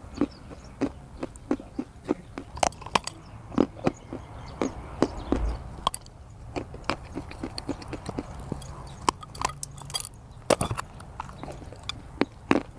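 Close-up crunching of a person biting and chewing dry, crunchy brown clay: a quick, irregular series of sharp crisp cracks, a few each second, some louder than others.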